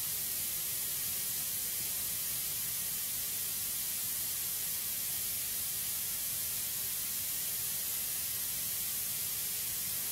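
Steady high-pitched hiss, even throughout, with no crackles or pops.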